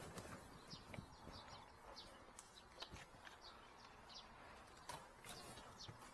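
Near silence, with faint short high bird chirps repeating about twice a second and a few soft knocks.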